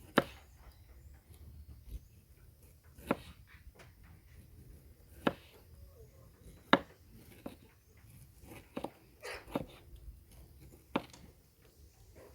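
A series of short, sharp knocks or clicks at irregular intervals, roughly one every one to two seconds, over a quiet background.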